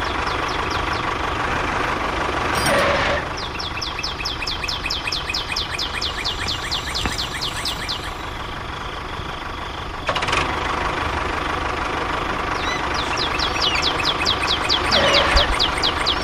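A homemade mini tractor's small motor running steadily. Two stretches of quick high chirps repeat about four or five times a second. The sound changes abruptly about ten seconds in.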